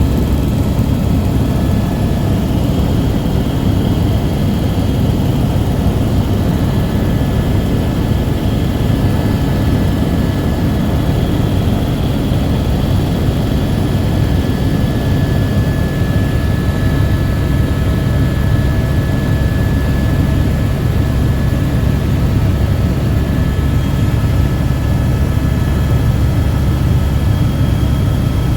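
Helicopter running steadily, a loud, even drone of engine and rotor with faint steady whining tones above it.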